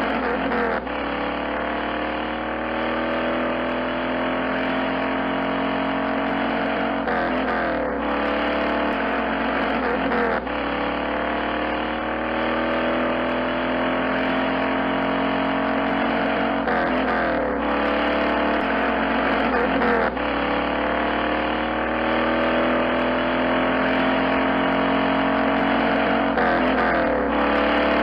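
Vehicle engine heard from inside the cab while driving on a dirt road, its pitch climbing for several seconds and then dropping back, about every ten seconds, as it speeds up and changes gear.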